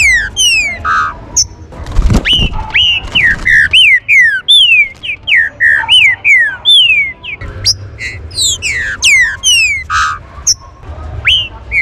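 Green-winged saltators (trinca-ferro) calling: a fast run of sharp, downward-sliding whistled notes about two a second, overlapping with higher sliding notes from more than one bird, over a low background rumble.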